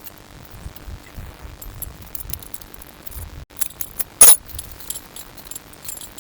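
Small metal objects jangling and clinking, with one sharp, loud clank about four seconds in.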